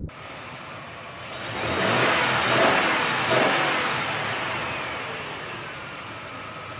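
A car engine and its road noise swelling as the vehicle passes, loudest two to three seconds in, then slowly fading as the pitch falls away.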